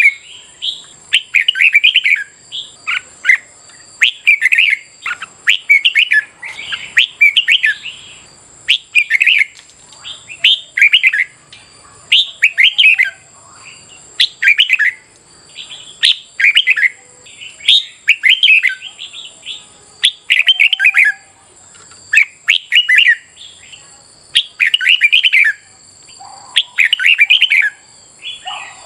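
Red-whiskered bulbul singing: short, loud, warbling phrases repeated every second or two.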